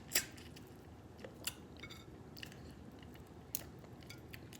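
Maryland blue crab shells being cracked apart while eating: a few sharp cracks and snaps, the loudest just after the start, with quieter chewing and picking sounds in between.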